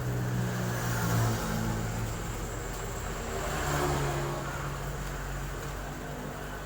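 Truck engine running, its note swelling and shifting in pitch twice, about a second in and again near the middle.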